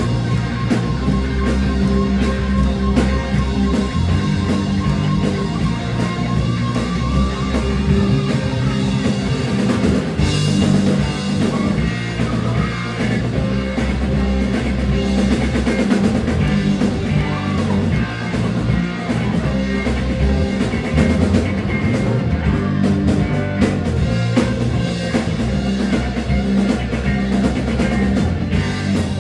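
Rock music playing steadily: a band with drum kit and guitar.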